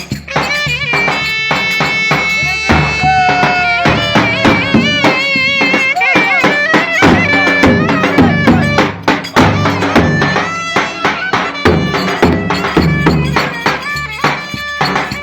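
Turkish folk dance music from a wedding band: a wavering, gliding lead melody over quick, steady drum beats.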